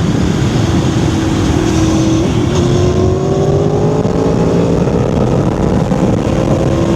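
Aprilia Tuono V4R's V4 engine under way, its note steady, then rising as the revs climb for about three seconds before dropping back, over a dense rush of wind and road noise.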